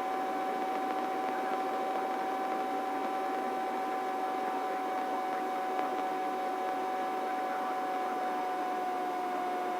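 Helicopter cabin noise in steady cruise, heard through the headset intercom: an even whine with a steady high tone over a hiss, with almost no deep rumble.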